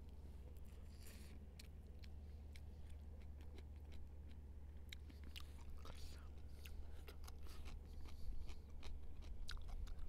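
A person eating: faint chewing with scattered small clicks and crackles, busier and louder in the last couple of seconds, over a steady low hum.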